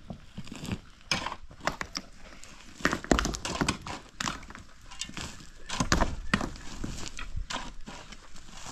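A run of irregular knocks and thuds, the heaviest about three seconds and six seconds in.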